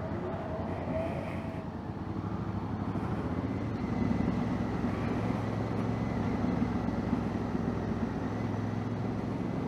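2019 Honda Africa Twin's 1000 cc parallel-twin engine running on the move, getting louder about four seconds in as it pulls harder.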